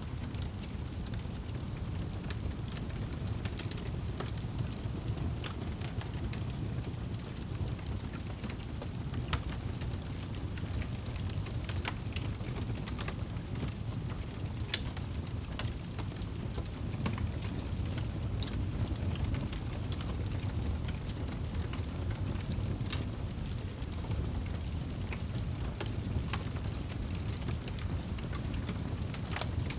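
Crackling fire with rain falling: a steady low rushing hiss with scattered sharp crackles and pops.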